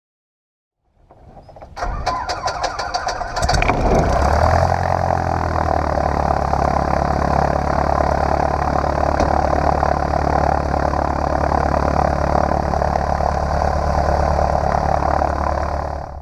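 Cessna 150's Continental O-200 four-cylinder engine being started: the starter cranks it through a quick run of strokes for about two seconds, it catches, and then it settles into a steady run.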